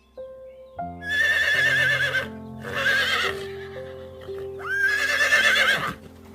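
A horse whinnying three times, each call loud with a shaking, wavering pitch, the last the longest. Background music plays underneath.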